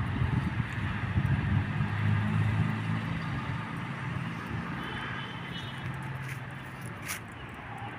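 A low engine hum going past, loudest in the first few seconds and then fading away. A brief sharp click near the end.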